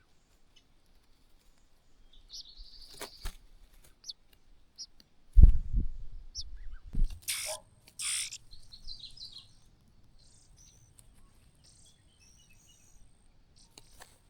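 Nestlings in the nest calling with high chirps and short rapid trills, with a few louder harsh calls about seven to eight seconds in. Two loud low thumps come about five and seven seconds in.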